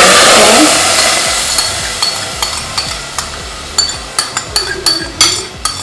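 Homemade barbecue sauce poured into a hot saucepan sizzles at once with a loud hiss that fades over a few seconds. A spoon then scrapes and taps in the pan as the sauce is stirred.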